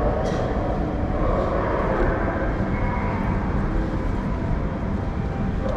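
A train running, a steady rumble with faint hums over it.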